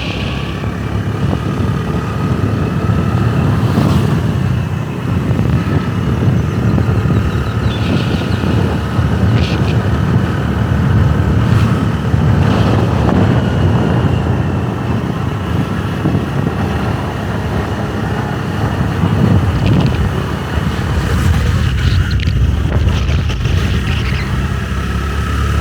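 Motorbike running while being ridden: a steady low engine and road rumble, with a few short high-pitched sounds here and there.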